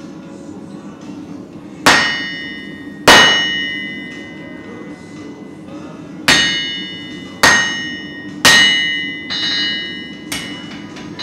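Hand hammer blows on a blacksmith's anvil while forging a damascus steel billet: about seven irregular strikes, each followed by a bright metallic ring that fades away, over a steady low hum.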